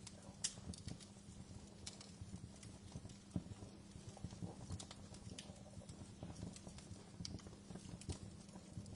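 Wood fire burning in a fireplace: a low, steady rumble of flames with irregular sharp crackles and pops, the loudest about half a second in and again about three and a half seconds in.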